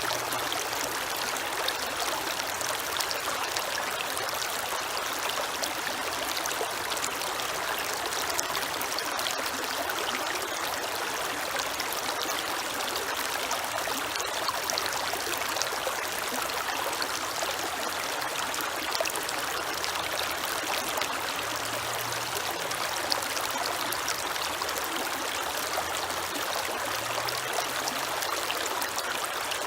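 Creek water flowing steadily, a continuous rushing with fine trickling splashes.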